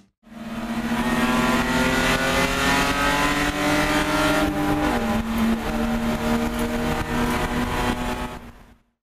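Race car engine pulling hard, its pitch rising slowly and then dropping abruptly at an upshift about five seconds in, then holding steady before fading out near the end.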